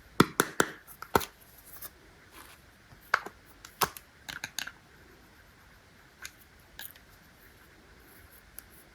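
A series of sharp, irregular clicks and taps: a quick cluster in the first second or so, a few more around the middle, then only one or two scattered ones.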